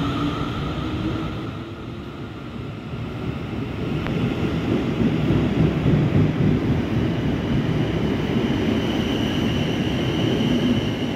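Siemens Desiro Class 450 electric multiple unit departing: a steady rumble of wheels on the rails that grows louder a few seconds in as the carriages pass, with a thin high whine over it.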